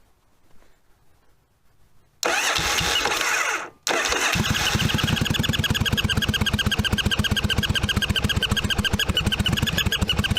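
1982 Yamaha Virago 750's air-cooled V-twin cranked by its electric starter for about a second and a half, then catching and idling with a steady, rapid, even pulse. It is running with what the owner takes for a vacuum leak.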